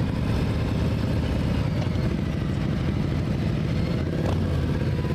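Motorcycle engine running steadily at idle, played as a sound effect for a toy Harley-Davidson motorcycle.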